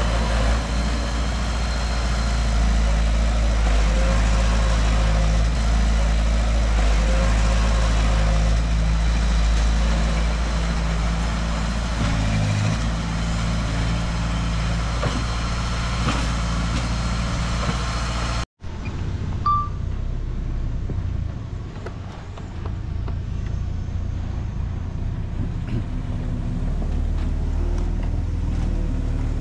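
Heavy earthmoving machine's diesel engine running steadily. About two-thirds of the way through the sound cuts off abruptly and resumes as another engine running, duller.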